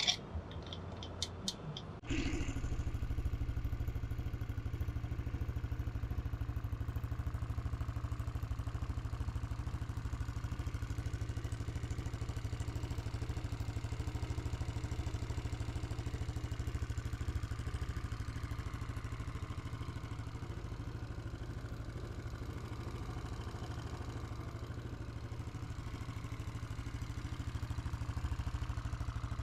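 Yamaha Cygnus X scooter's single-cylinder four-stroke engine: a few sharp clicks, then it starts about two seconds in and idles steadily.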